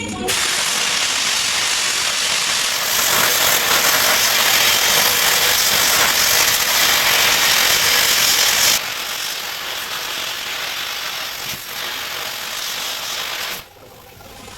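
Air carbon arc gouging: the carbon arc crackling under a hard blast of compressed air as it cuts out old weld metal. It starts a moment in, runs loudest for about eight seconds, then carries on at a lower level until it stops near the end.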